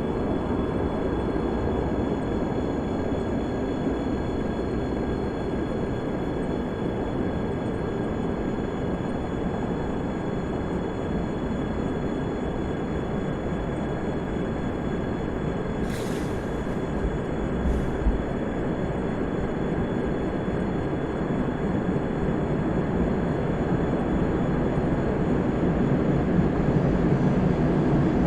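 ChS7 electric passenger locomotive running with its train: a steady rumble with thin high steady tones above it, slowly growing louder toward the end. Two short sharp clicks come a couple of seconds apart about two-thirds of the way through.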